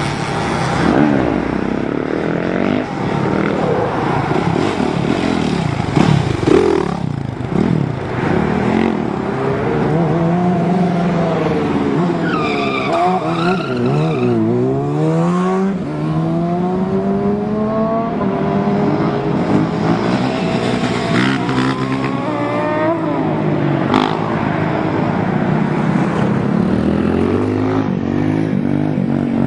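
Motorcycle engine revving hard on the road, its pitch rising and falling again and again, with other engine notes overlapping at times, most thickly around the middle.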